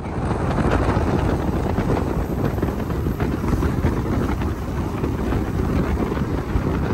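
Wind rushing over the microphone and the rumble of a passenger train running along the track, heard at an open coach window. The noise starts abruptly and then holds steady and loud.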